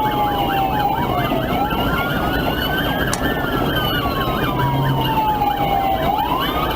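Police car sirens during a pursuit: one in a slow wail, falling and rising every few seconds, and another in a fast yelp that cycles about six times a second, over steady road and engine noise from the moving cruiser.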